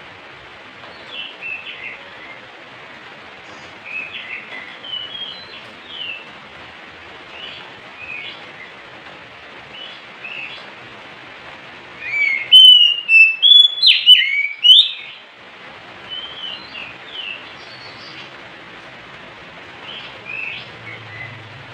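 Oriental magpie-robin singing in short whistled phrases, with a loud burst of song about twelve to fifteen seconds in.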